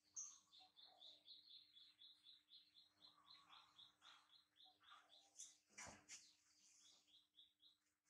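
A bird calling outside, faint: a fast, steady run of short high chirps, about four a second. A single knock sounds about six seconds in.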